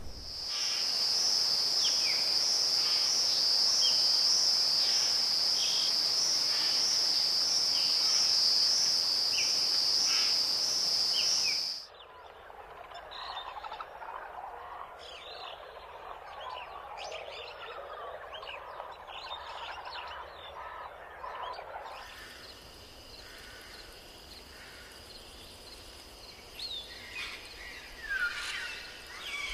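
Forest wildlife ambience. A loud, steady, high-pitched drone with chirping calls over it cuts off abruptly about twelve seconds in. A quieter chorus of many short chirps and calls follows, and in the last few seconds a fainter high drone returns under more chirps.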